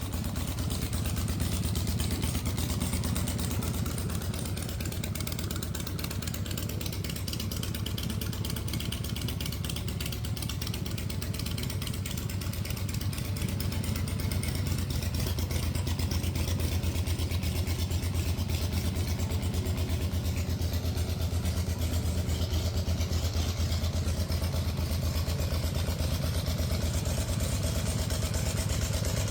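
Custom chopper's 124 cubic inch S&S V-twin engine running steadily, a little louder from about halfway through.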